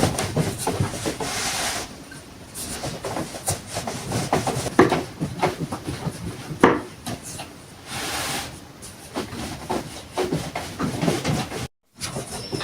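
Irregular wooden knocks and scraping, as of wood being rubbed or moved about, with a brief drop to silence near the end.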